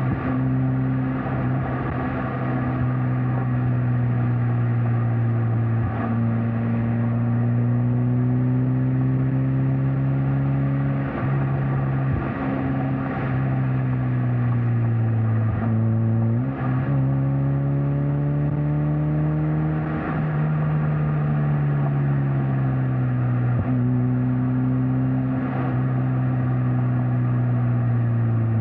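Mazda MX-5 Miata NC's 2.0-litre four-cylinder engine and exhaust under way on the road, its pitch rising and falling gently with speed, dropping just at the start and jumping sharply upward about sixteen seconds in. Road and wind noise run beneath it.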